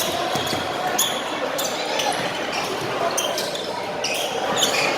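Basketball bouncing on a gym floor during play, a series of irregularly spaced thuds with voices in a large echoing hall.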